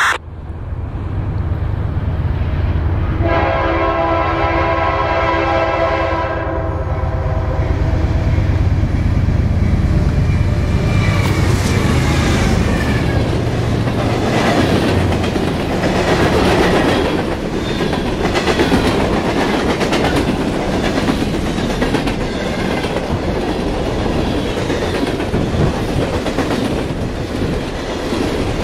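A train horn sounds one long blast of about three seconds, a chord of several tones, over a low engine rumble. The train then passes at speed with a steady loud rumble and the clickety-clack of wheels over the rail joints.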